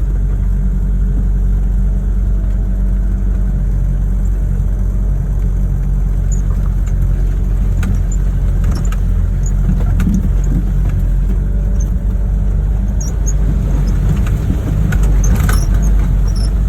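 Toyota Hilux LN65's diesel engine running steadily, heard from inside the cabin while driving a rough off-road track, with occasional knocks and rattles as the vehicle bumps along.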